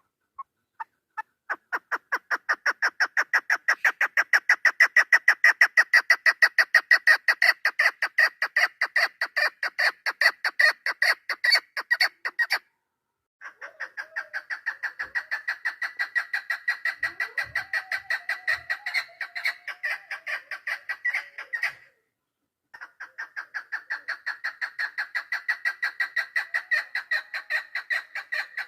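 Female chukar partridge (keklik) calling: long runs of rapid, evenly repeated clucking notes, three runs with short breaks between them, the first building up in loudness as it starts.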